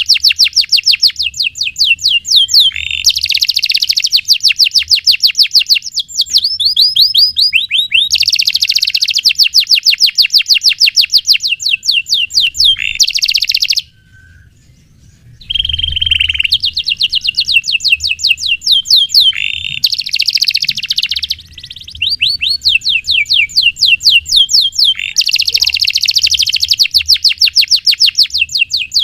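Male domestic canary singing long, rapid rolls: fast trains of repeated chirping notes, one phrase running into the next, with a short break about halfway through.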